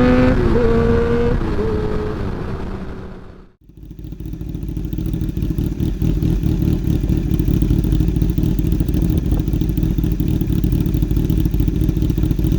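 Motorcycle engine revving with rising pitch, then backing off in the first second and fading out to silence about three and a half seconds in. A steady low rumble of riding noise, engine and wind buffeting on the microphone, follows to the end.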